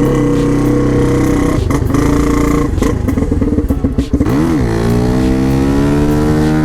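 An old dirt bike's engine, just started after sitting unused for a long time, idling with a few sharp clicks. About four and a half seconds in it gets a quick throttle blip, then the idle climbs slowly.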